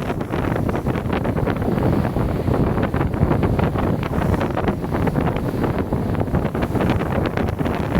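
Wind buffeting the microphone on board a ferry in a continuous gusty rush, over a steady low rumble from the ship.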